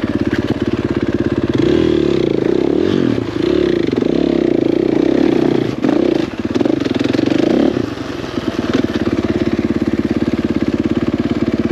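Single-cylinder dirt bike engine running, its revs rising and falling between about two and eight seconds in, then settling into a steady low-rev running near the end.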